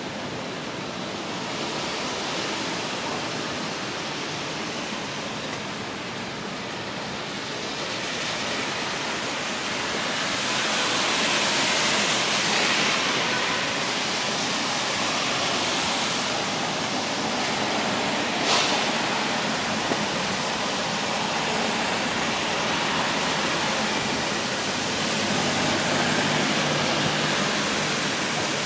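Steady hiss of rain falling on a city street, growing louder about ten seconds in, with a single sharp tick a little after halfway.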